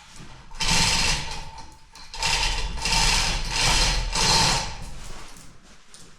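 Metal mechanism worked by hand in about four rasping, clicking strokes of roughly a second each, the first beginning just over half a second in.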